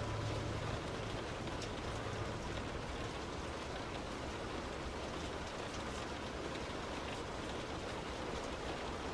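Heavy rain on a moving car: a steady hiss of rain and wet-road noise with faint scattered taps of drops, and a low engine hum that fades after about two seconds.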